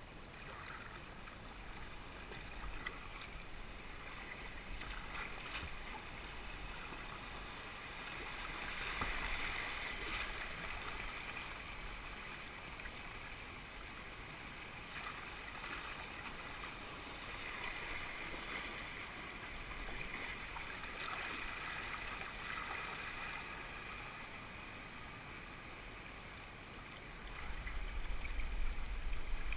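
River water rushing and splashing around a kayak, swelling and easing every few seconds. Wind rumbles on the microphone near the end.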